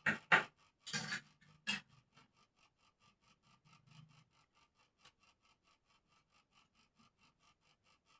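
Four short abrasive rubbing strokes on a bird cage during hand smoothing, all in the first two seconds. After that only a faint, steady ticking remains, about four ticks a second.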